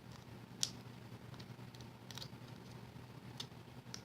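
Faint paper handling: a few short, sharp clicks as foam adhesive dimensionals and a paper cut-out are handled and pressed in place, over a low steady room hum.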